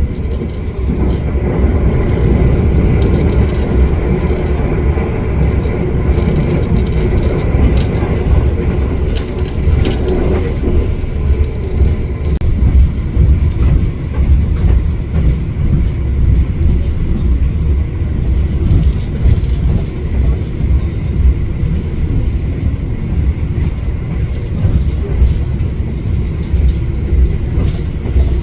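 Argo Bromo Anggrek express train running at speed, a steady rumble of wheels on rail heard from on board, with a few brief clicks about eight to ten seconds in.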